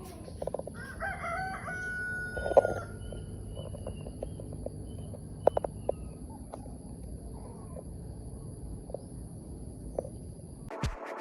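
A rooster crowing once, about a second in: a rising call that ends on a held note. Small clicks and taps follow, and electronic music starts near the end.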